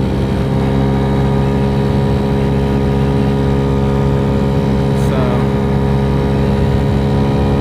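Dongfang DF50SST scooter with an 88cc big-bore kit, its engine droning at a steady high pitch while cruising at full speed, with wind noise. The engine is revving high on light 6.5 g variator sliders, which the rider finds too high, and it sounds louder than before.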